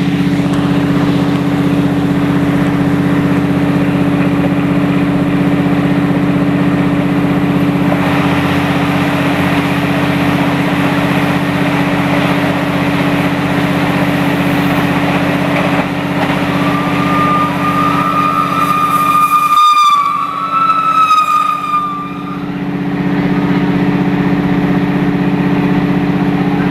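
Steady rumble and drone of a passenger train running at speed, heard through an open coach window while it overtakes a train on the next track. Partway through, a train whistle sounds for about five seconds.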